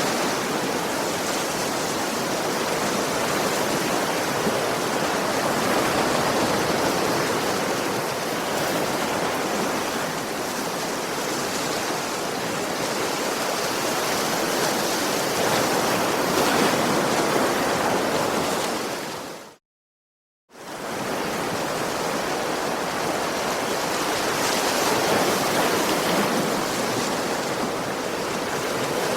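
Sea waves washing onto a shore in a continuous rush that swells and eases slowly. About two-thirds of the way through, the sound cuts out to complete silence for about a second, then comes back.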